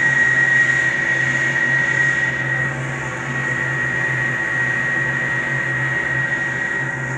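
Gas furnace's Rheem draft inducer and blower motor running at second stage, very noisy: a steady high whine over a constant low hum and rushing air.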